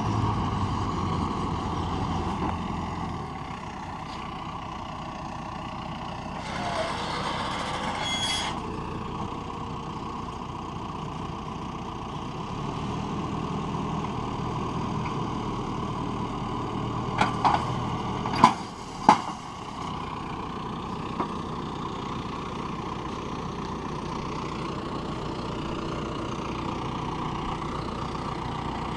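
Vehicle engine running steadily. A short hiss comes about seven seconds in, and a few sharp knocks a little past the middle are the loudest sounds.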